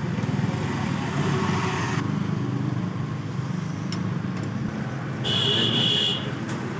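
Engine running steadily with a dense low rumble. A brief high-pitched tone sounds for about a second, beginning a little over five seconds in.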